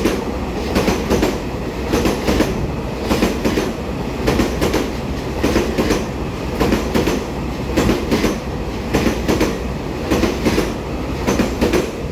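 Twelve-car EMU3000 electric multiple unit running past close by, with steady rolling noise and repeated wheel clacks over the rail joints as the cars go by.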